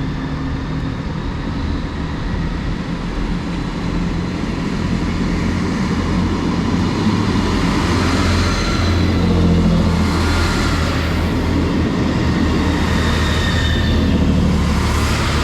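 Two coupled Class 158 diesel multiple units pulling away, their underfloor diesel engines running under power with a low throb that grows louder over the first ten seconds or so.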